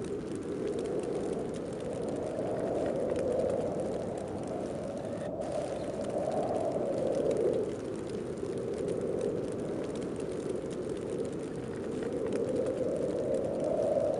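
Snowstorm wind blowing steadily, a dense rush with a low moaning tone that swells and eases in slow gusts.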